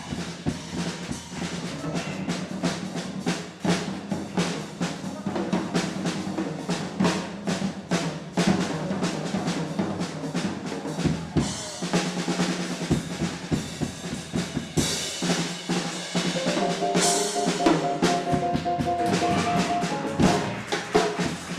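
Jazz drum kit playing a busy pattern of snare and bass drum hits over a steady low note, with cymbal washes several times in the second half.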